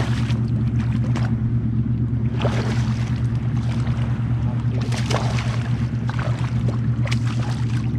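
Hobie Pro Angler 14 kayak under way on the water: a steady low hum, with water splashing against the hull now and then.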